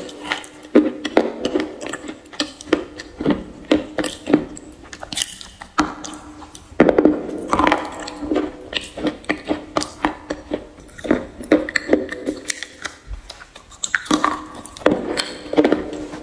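Close-miked chewing of something hard and brittle: many sharp, irregular crunches as it breaks between the teeth.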